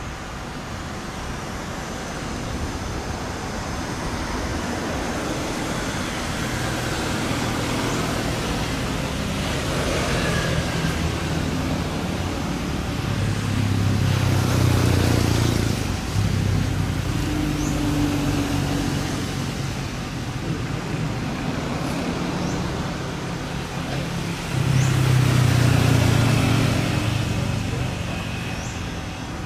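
Motor vehicles running and passing, with a steady traffic-like hum that swells to two louder passes, one about halfway through and one near the end.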